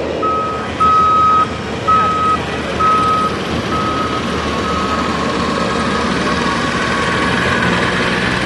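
Vehicle backup alarm beeping, one steady tone about once a second, fading away about five seconds in, over a constant rumble of the pull grounds.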